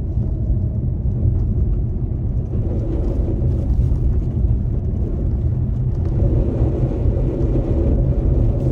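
Steady low rumble of a car driving on a snowy road, engine and tyre noise heard from inside the cabin.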